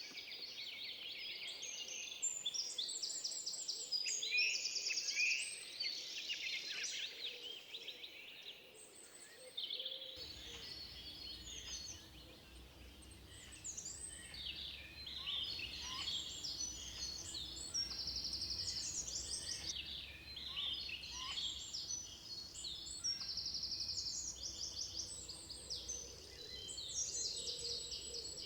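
Several songbirds singing over one another, with quick chirps, whistles and fast even trills. About a third of the way through, a faint low rumble comes in suddenly under the song.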